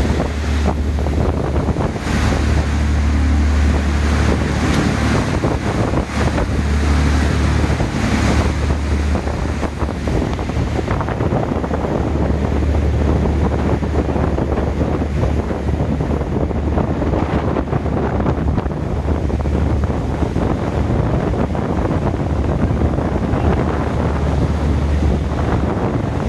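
Wind buffeting the microphone over the steady low drone of a catamaran's engine and the rush of its wake water.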